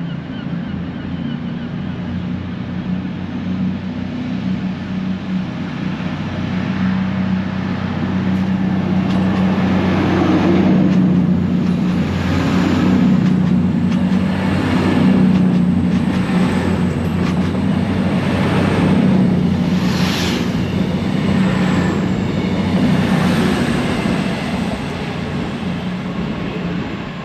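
Diesel-engined train running past at close range, its engine a steady low drone. Wheels knock over the rail joints at a regular beat, growing louder towards the middle and easing off near the end.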